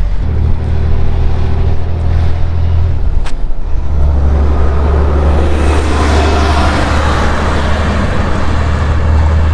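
Heavy trucks driving past on a road: a steady low engine rumble, with a louder rush of engine and tyre noise swelling from about halfway through.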